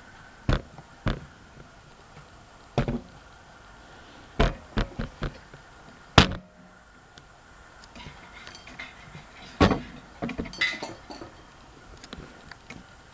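Handling noises: a dozen or so irregular clicks and knocks of parts being moved and touched. The sharpest comes about six seconds in, and a strong knock is followed by a quick cluster of smaller clicks near ten seconds.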